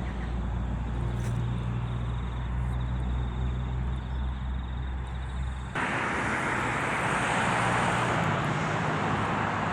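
A train: a steady low engine drone, then about six seconds in an abrupt change to a louder, even rushing rumble.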